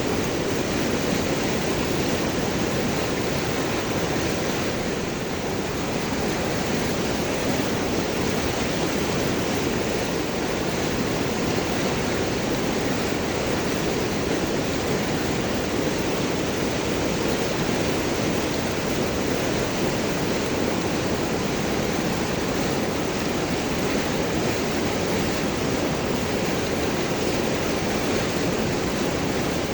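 River water flowing and gurgling over and around large rocks, a steady, even rush.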